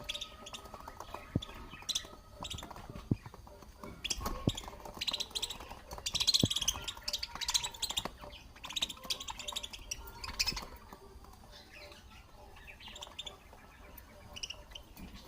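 Budgerigars chirping and squawking in short, quick bursts, busiest in the middle, with a few soft knocks.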